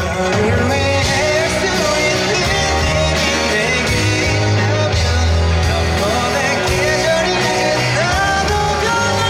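A male vocalist singing a pop-rock ballad live at a street busking performance, over instrumental accompaniment with a steady bass line.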